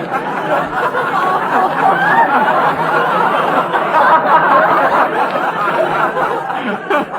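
Studio audience laughing together in a long, sustained wave of laughter, easing off near the end. The recording is an old, heavily compressed radio broadcast.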